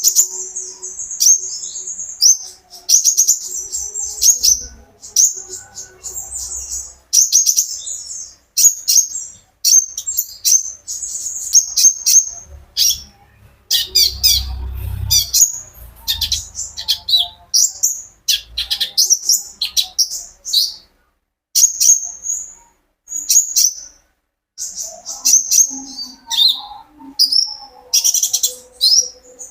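Konin sunbird singing: rapid high twittering phrases and trills, one after another with brief pauses.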